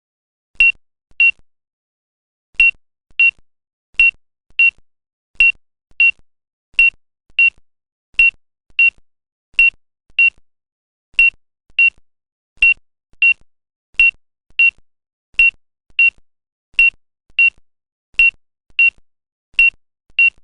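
Electronic beeps at one high pitch, coming in pairs, with a pair about every one and a half seconds.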